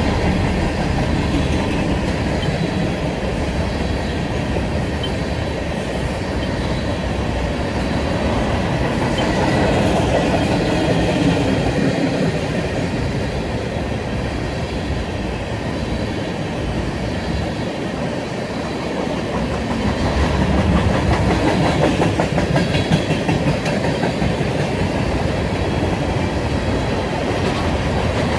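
Railroad cars of a passing train rolling by, steel wheels on the rails making a steady rumble that swells a little near the end.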